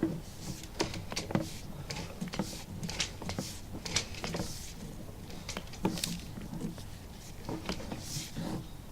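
Sewer inspection camera being pushed through a cast iron drain line: irregular clicks and knocks from the push cable and camera head over a faint steady low hum.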